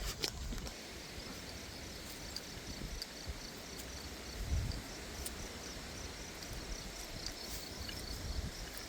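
Insects, crickets or similar, chirping in a rapid, even, high-pitched pulse over a low outdoor rumble, with a couple of faint knocks.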